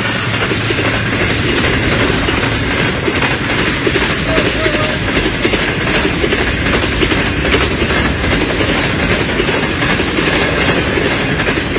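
Pakistan Railways train running on the track, its wheels clacking over the rail joints within a loud, steady rumble.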